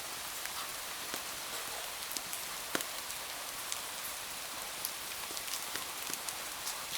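Steady rain, an even hiss, with many small sharp clicks scattered irregularly throughout and one louder click near the middle.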